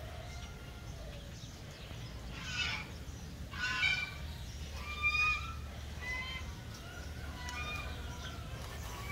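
Birds calling: three loud calls about two and a half, three and a half and five seconds in, then fainter, shorter chirps, over a steady low hum.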